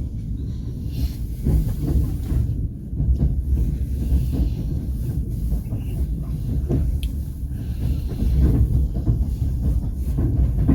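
Passenger train running along the track, heard from on board: a steady low rumble with a few sharp wheel clicks over the rails.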